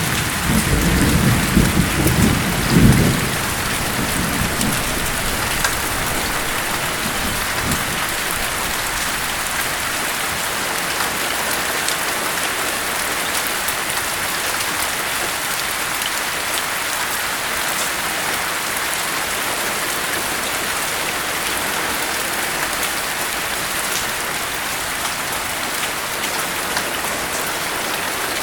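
Steady heavy rain falling, with a deep rumble of thunder during the first few seconds that dies away, leaving only the even patter of rain.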